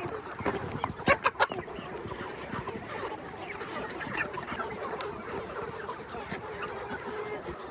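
A flock of chickens clucking and calling over one another, with a few sharp knocks about a second in.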